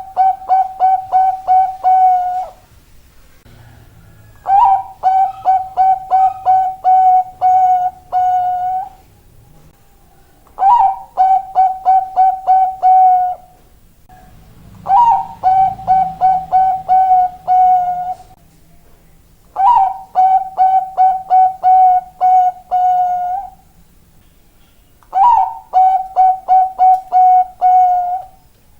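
Perkutut bangkok (Thai-bred zebra dove) cooing in repeated phrases about five seconds apart. Each phrase is a higher opening note followed by a quick run of short, even coos.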